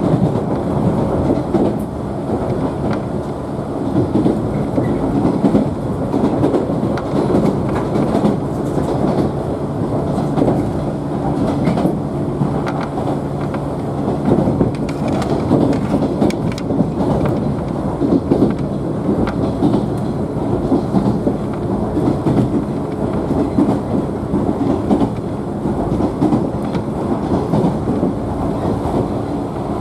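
Running noise inside a JNR 113-series electric train's motor car at speed: a steady rumble of wheels on rail with a faint motor and gear hum, and scattered clicks as the wheels pass rail joints.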